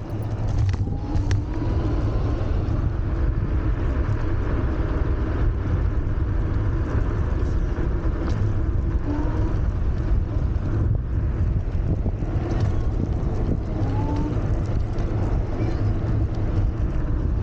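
Steady wind rush on the microphone and road noise from a Wolf Warrior 11+ electric scooter riding at speed, with a few faint short rising tones.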